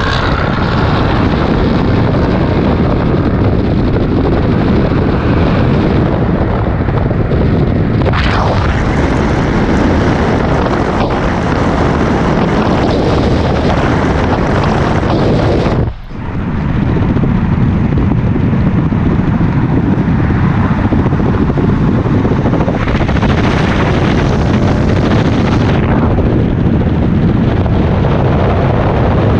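Steady, loud noise of cars driving, with a sudden brief dropout a little over halfway through before the same noise resumes.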